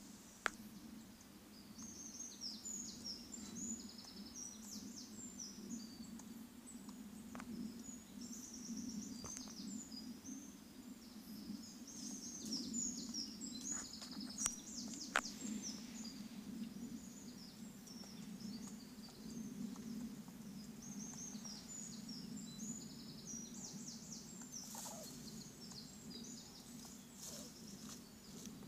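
Squirrel making rapid, high-pitched squeaky chirps in runs several seconds long, over a steady low hum.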